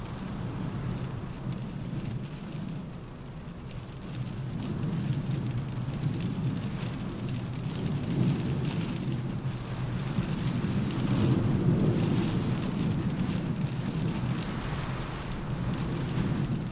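Rain falling on a car roof, with wind howling. A low rumble under the rain swells louder about two-thirds of the way through, then eases off.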